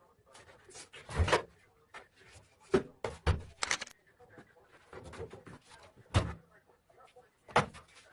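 A washing machine banging as it runs: about six loud, irregular knocks and thumps a second or two apart, with faint rattling between them.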